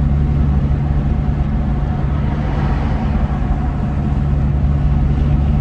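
Car engine and road noise heard inside the cabin while cruising at a steady speed: a constant low drone.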